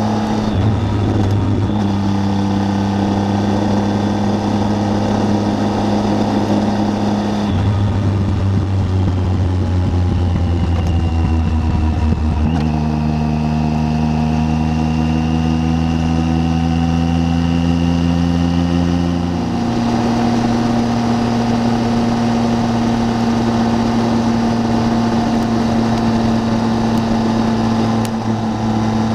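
Triumph Tiger 800's three-cylinder engine running at steady road speed under riding wind noise, its pitch shifting in steps a few times as the road speed or gear changes.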